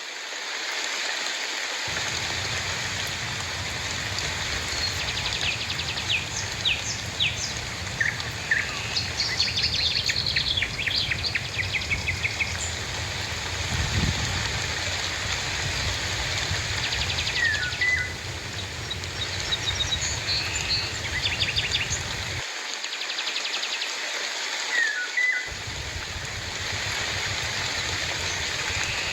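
Steady rain falling, with birds chirping and calling on and off over it, including several quick trills and short falling whistles.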